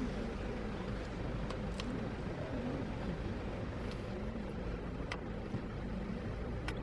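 Street ambience: a steady rumble of traffic, with a few short, sharp clicks scattered through it.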